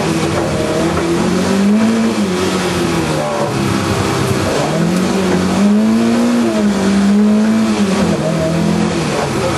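Lada 2101 rally car's four-cylinder engine heard from inside the cabin, revving hard under load. Its pitch climbs, drops back about two seconds in, climbs again around the middle and holds, then falls away near the end.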